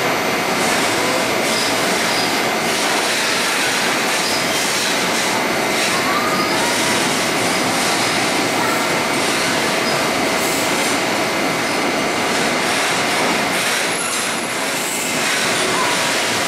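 Container flat wagons of a long freight train rolling past on the adjacent track: a steady dense rumble and rattle of wheels on rail, with a thin steady whine over it. The noise eases briefly near the end, then picks up again.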